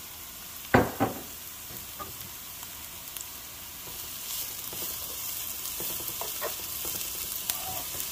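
Grated carrot and onion sizzling in a frying pan while a slotted spatula stirs them, with small scrapes and taps on the pan. Two sharp knocks come about a second in and are the loudest sounds, and the sizzle gets louder from about the middle on.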